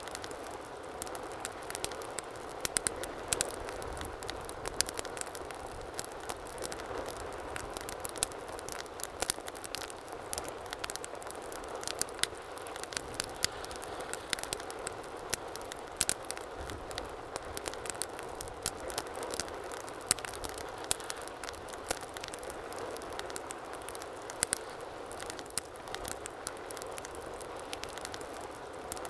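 Wood fire burning in a fireplace: a steady soft hiss with frequent sharp, irregular pops and crackles.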